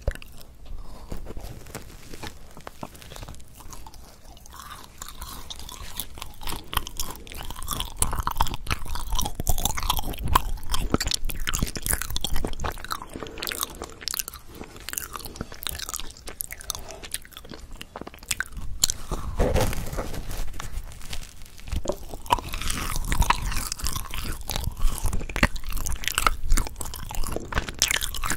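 Close-miked eating sounds of a Korean potato bread (gamja-ppang): bites and chewing, with many small irregular mouth clicks and crackles, louder from about eight seconds in.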